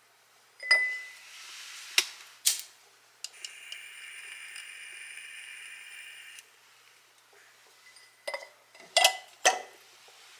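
Dishes and glassware being handled: a series of sharp clinks and knocks, with a steady high ringing tone lasting about three seconds in the middle.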